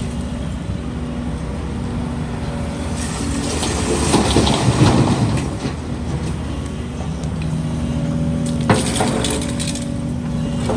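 Heavy diesel excavator engine running steadily under load, with a crunching rush of broken concrete rubble about four seconds in and a single sharp clank near the end.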